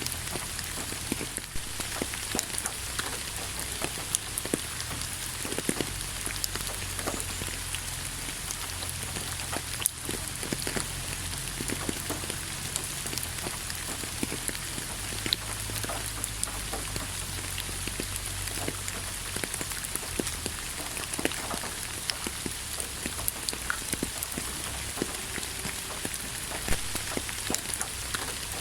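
Steady rain with many scattered drops tapping close by, over a low rumble.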